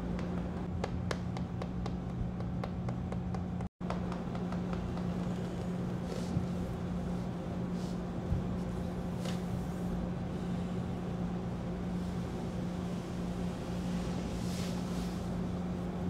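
Steady low background hum over a faint rumbling hiss, with a few faint clicks. It cuts out for an instant about four seconds in.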